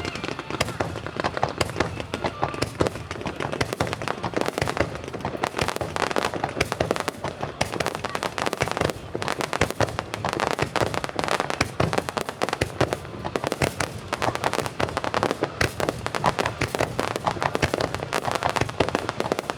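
Aerial fireworks display: a dense, unbroken barrage of shell bursts and crackling reports, many each second.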